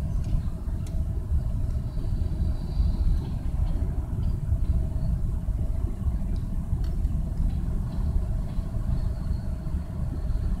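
Freight train of covered hopper cars rolling past at steady speed: a continuous low rumble of wheels on rail, heard from inside a car.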